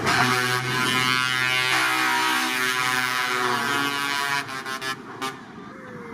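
Truck air horn blowing a run of held notes that change pitch in steps, stopping about four and a half seconds in.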